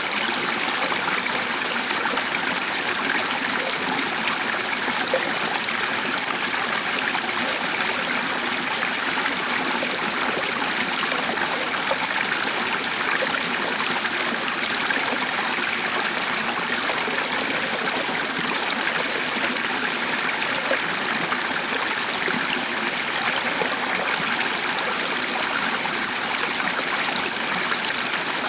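Stream running steadily, an even rush of flowing water with no change in level.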